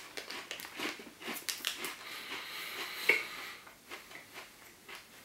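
A person chewing a hard, crisp cookie close to the microphone: a run of irregular crunches that thin out near the end.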